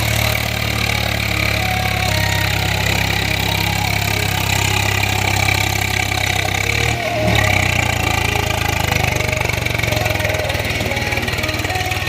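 Swaraj tractor's diesel engine running at a steady speed, with a brief dip about seven seconds in.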